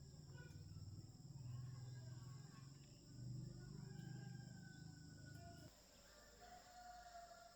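Faint low hum that cuts off suddenly near the end, with faint bird calls in the background.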